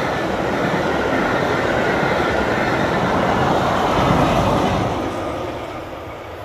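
Steam-hauled passenger train (LNER A3 4472 Flying Scotsman's rail tour) rolling past on the track, a loud steady rumble of wheels on rails. It fades away about five seconds in as the train moves off.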